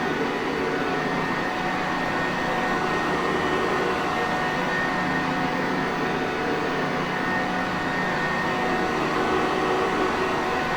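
Sanitaire Perfect vacuum cleaner running steadily: a constant motor whine with an even hum, no change in speed.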